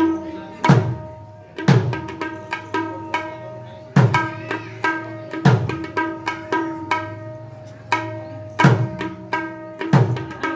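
Mridanga, the two-headed barrel drum, played solo: ringing pitched strokes on the treble head mixed with about six heavy bass strokes whose pitch slides down, at an unhurried, free pace.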